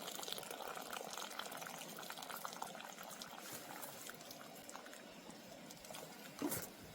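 A pot of soup bubbling at a boil, a dense crackle of small pops. Near the end there is a brief louder sound that falls in pitch.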